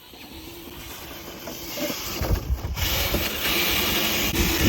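RC crawler truck's electric drivetrain running with a low rumble, growing louder, joined by a strong steady hiss about three seconds in.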